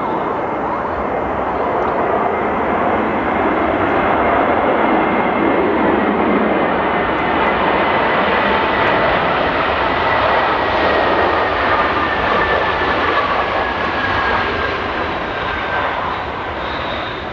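Airbus A320neo's Pratt & Whitney PW1100G geared turbofans running at go-around thrust as the aircraft climbs away, a loud steady roar with whining tones that slowly fall in pitch as it passes, easing off near the end.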